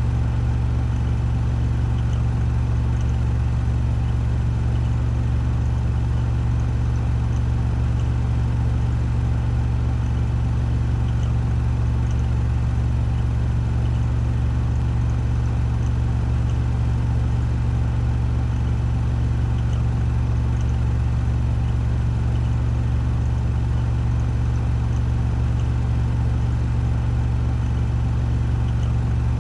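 Washing machine spinning at 1400 rpm: a loud, steady low hum with a faint whir above it, unchanging throughout.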